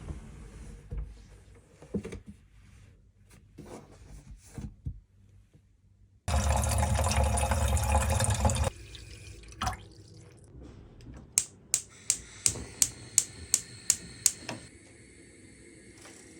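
Household handling sounds: light knocks and clatter, then a tap running hard for about two seconds. A quick run of about nine sharp clicks, roughly three a second, follows, and a faint steady hum comes in near the end.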